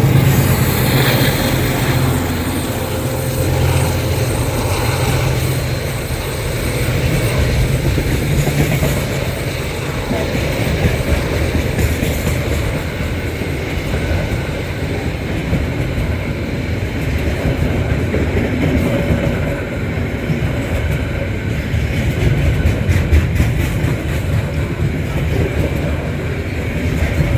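Two diesel-electric freight locomotives, a DXB and a DCP, working hard under load up a steep grade, with a deep steady engine drone. From about ten seconds in, a loaded wagon train rumbles past with repeated wheel clicks over the rails.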